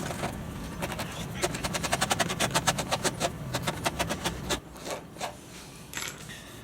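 Puncture-kit scourer rasped quickly back and forth over the rubber of a motorcycle inner tube, a run of short scraping strokes several times a second that eases off into a few slower strokes near the end: the tube is being roughened around a pinch hole to take the glue and patch.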